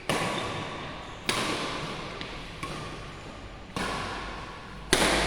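Badminton rally: rackets striking a shuttlecock back and forth, five sharp hits about a second apart, each echoing in a large sports hall.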